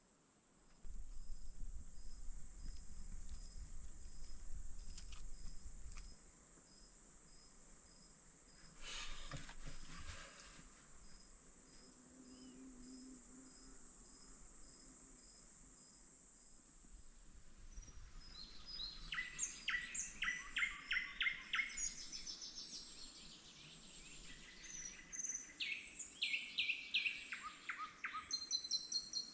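A steady high-pitched insect drone, with faint regular ticks, stops abruptly about two-thirds of the way in. A songbird then sings rapid repeated notes and trills.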